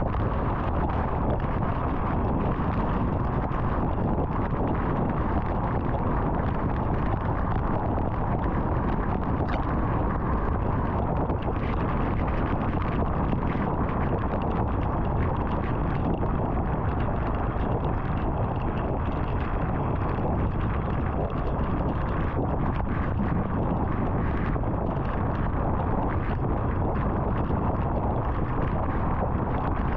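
Car driving at highway speed: a steady tyre and wind noise with no change in level.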